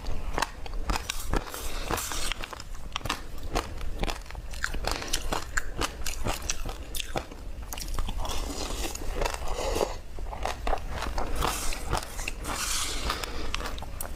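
Close-up crunching and chewing of a mouthful of crisp granular food eaten by the spoonful: a dense run of sharp, irregular crackling crunches.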